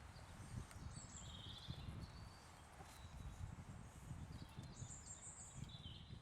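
Faint outdoor ambience: a few distant bird chirps over a soft, uneven low rumble.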